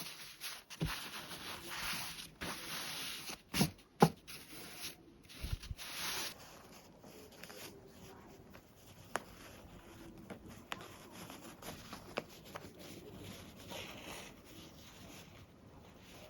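Fabric rustling as it is handled, with a few sharp knocks in the first few seconds. After that it quietens to faint rubbing with occasional light clicks.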